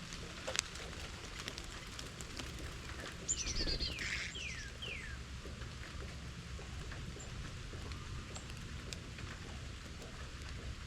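A songbird calling: one quick run of about six downward-slurred whistled notes, starting about three seconds in, over a steady outdoor hiss with a few scattered faint ticks.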